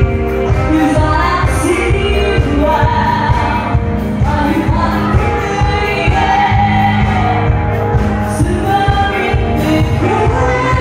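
Live band playing pop-rock with a singer, a steady drum beat and bass, in a large room.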